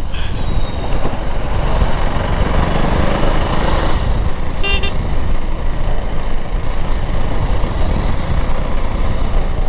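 KTM Duke 390's single-cylinder engine running under way in traffic, a steady rumble, with a short horn toot about four and a half seconds in.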